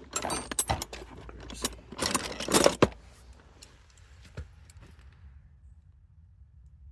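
Clattering and jangling of small metal parts or tools being handled, loudest about two to three seconds in. It then dies down to a few faint ticks over a low hum.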